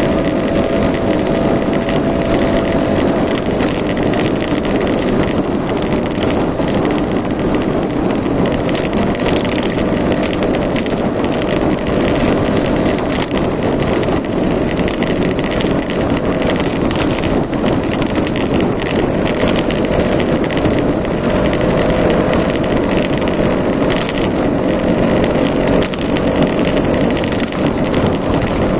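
Yamaha Majesty S 155 scooter's single-cylinder four-stroke engine running steadily, heard through a dense, unbroken noise.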